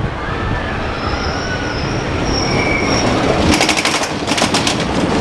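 Roller coaster train running along its track: a thin, high wheel squeal, then a quick rattling clatter about three and a half seconds in.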